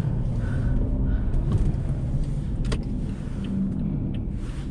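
Steady low rumble of a car driving on a snow-covered road, with one sharp click about two and a half seconds in.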